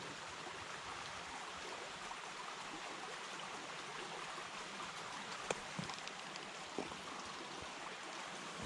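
Steady rain falling, a soft even hiss with a few louder drips ticking in the second half.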